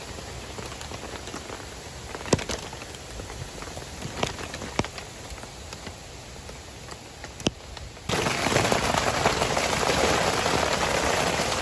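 Rain on a tarp: for about eight seconds only scattered single drops tap sharply, then it switches abruptly to heavy, steady rain, much louder.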